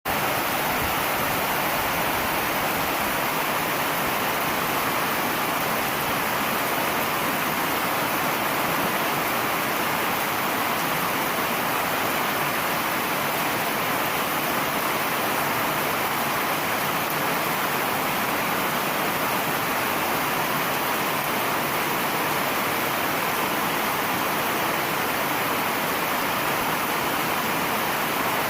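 Heavy summer rain shower pouring down steadily, an even, unbroken hiss of rain.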